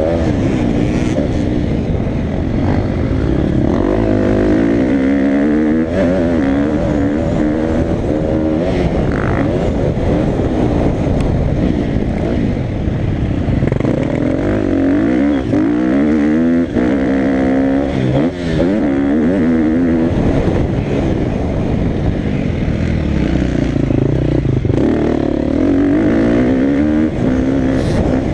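Motocross dirt bike engine being ridden hard, its revs rising and falling again and again as it accelerates and shifts gear.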